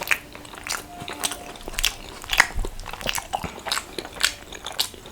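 A person chewing food close to the microphone: a run of short, sharp, wet mouth clicks and crunches, about two a second.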